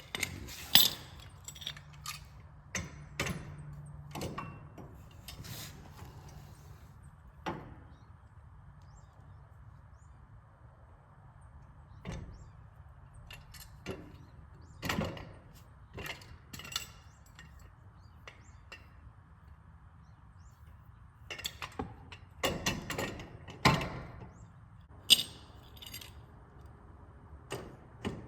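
Scattered sharp clicks and knocks of metal hardware being handled and fitted by hand, in clusters with quiet gaps, the busiest stretch near the end.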